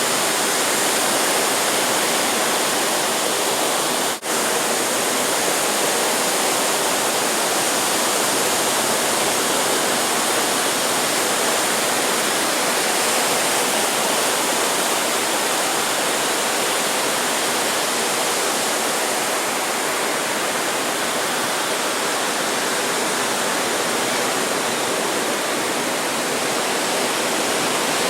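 Steady, even roar of ocean surf washing ashore, with a brief dropout about four seconds in.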